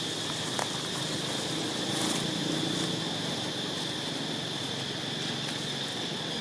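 Steady high-pitched insect drone, like cicadas or crickets, over a constant outdoor background hiss, with a few faint clicks and rustles.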